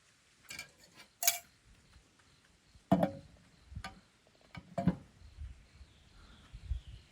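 Scattered knocks and clicks, about five of them a second or so apart, the loudest about three seconds in.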